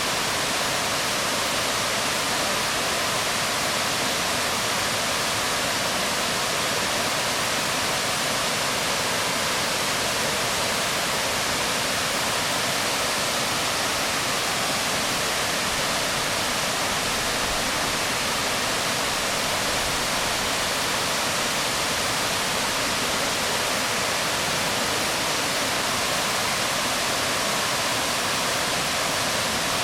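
Waterfall splashing onto rocks: a steady, even rush of falling water.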